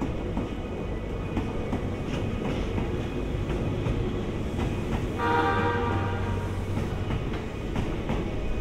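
Diesel locomotive slowly hauling a train of passenger cars past, with a steady low rumble and wheels clicking over rail joints. A little past halfway, a horn sounds once for about a second.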